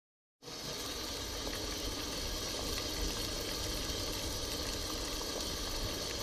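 Water at a rolling boil, bubbling steadily, starting about half a second in.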